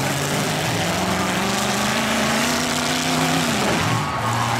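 Demolition derby trucks' engines running and revving over each other; one engine's pitch climbs slowly, then drops away about three and a half seconds in.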